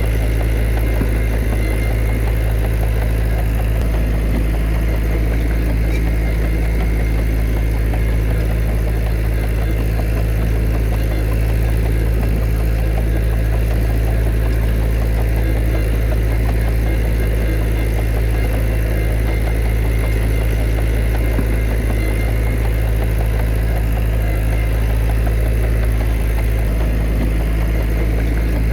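Heavy earthmoving machine's diesel engine running steadily at a constant speed, a deep even drone with no revving or pauses.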